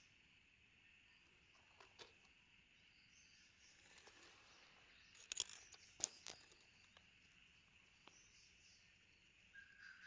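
Faint, steady chorus of insects in the evening. A few sharp clicks and rustles stand out, the loudest about halfway through.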